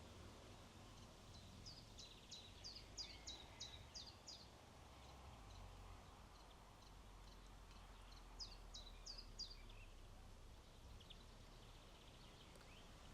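A small bird calling in two quick runs of short, sharp, high notes, about eight in the first and four in the second, over a faint low rumble of wind.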